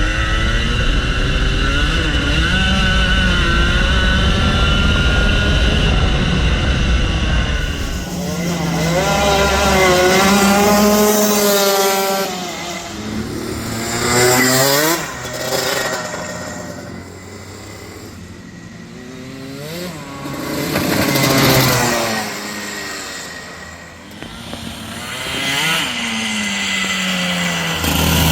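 Rotax Max Senior kart's 125 cc single-cylinder two-stroke engine heard from on board, held at high revs for about the first eight seconds, then dropping and climbing again several times as the kart slows and accelerates.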